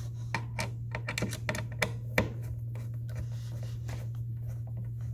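Light, irregular clicks and taps of plastic toy-house parts and small screws being handled and fitted, busiest in the first two seconds and then sparse, over a steady low hum.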